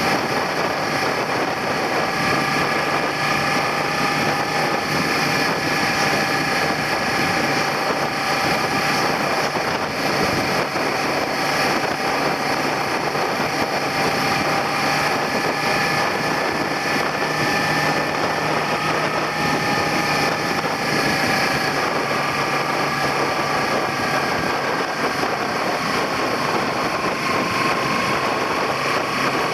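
Suzuki SV400 motorcycle's V-twin engine running at a steady riding pace, its pitch drifting gently up and down, with wind rush on the handlebar-mounted microphone.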